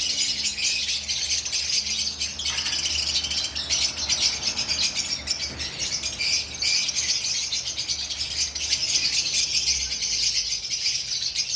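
A flock of caged lovebirds chattering and chirping, a dense, continuous, high-pitched racket of many birds at once. A low steady hum runs underneath and stops near the end.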